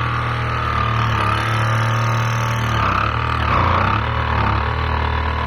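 A motor running steadily with a low hum and a wavering higher whine.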